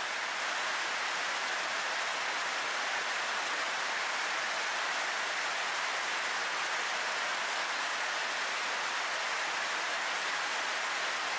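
Steady rain falling, an even hiss with no music over it.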